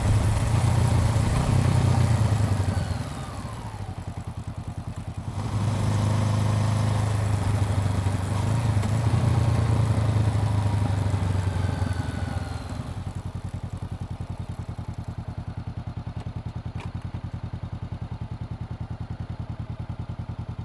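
Honda CBR400R's parallel-twin engine running: it eases off about three seconds in, pulls strongly again, then settles to a lower, even pulsing note for the last several seconds.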